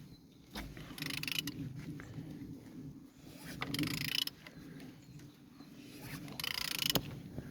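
Hyundai D4EA diesel engine being turned over, three whooshing puffs of air about two to three seconds apart as cylinders come up on compression, with a sharp click near the end. The puffs are the compression that the seller takes as good in all cylinders.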